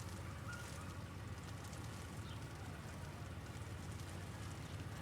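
Hail falling with many fine small ticks, over a steady low rumble of city traffic.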